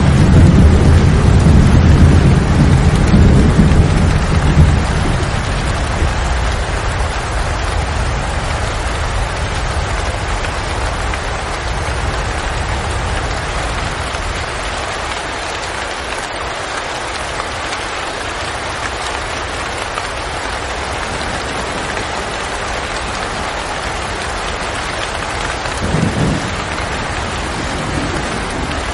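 Steady rain hissing, with a low rumble of thunder rolling loudly at the start and fading away over about five seconds, and a short, fainter rumble near the end.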